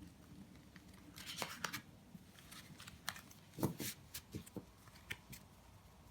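Tarot cards being handled on a table: papery slides and rustles with several soft taps as cards are drawn, turned over and laid down, the loudest tap a little past halfway.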